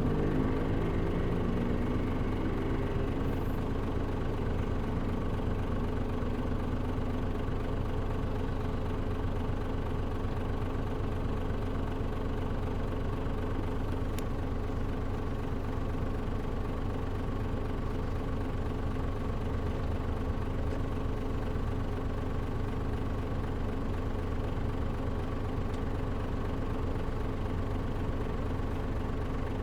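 Mitsubishi Fuso KL-MP37JM city bus's diesel engine idling steadily while the bus stands still, after winding down from a deceleration in the first second. The air conditioning is off, so only the engine is heard.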